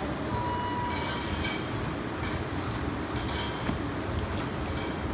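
Restaurant kitchen noise: a steady low machine rumble with a few brief clinks of metal utensils or dishes, about a second in, again half a second later, and once more past the middle.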